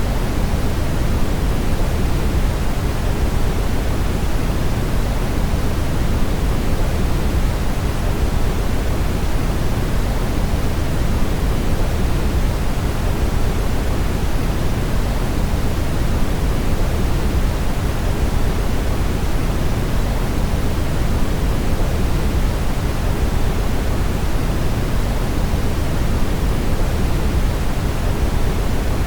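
Brown noise: a steady, even rushing hiss with most of its weight in the low end, unchanging throughout.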